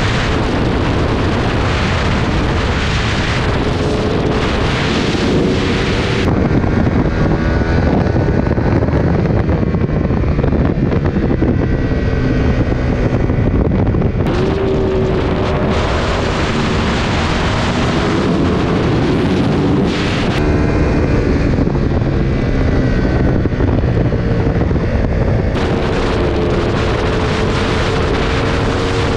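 Aprilia RSV4's V4 engine running hard on the road with heavy wind rush on the microphone, its pitch rising and falling through the gears. The wind rush eases twice for several seconds, leaving the engine note plainer, then comes back strongly.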